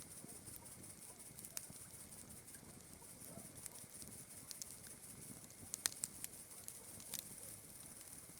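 Campfire crackling, with a few sharp pops, the loudest about six seconds in, over the steady high chirring of night insects.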